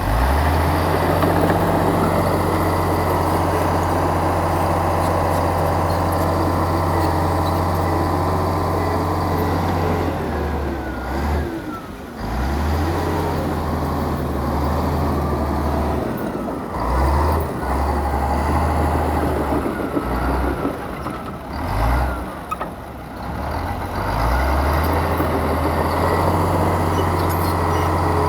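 Heavy diesel engine of earthmoving machinery running under load, with a steady low hum. In the second half its note drops away and picks up again several times, as the throttle or load changes.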